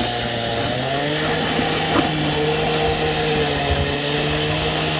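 An engine running at a steady speed, its pitch sagging slightly and recovering within the first second, with a brief click about two seconds in.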